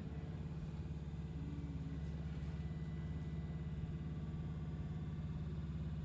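Electric passenger train running, heard from inside the carriage: a steady low rumble and hum.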